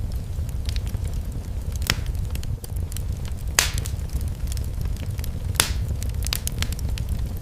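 Fireplace fire crackling: a steady low rumble of flame under scattered sharp ticks, with three louder snaps about two seconds apart.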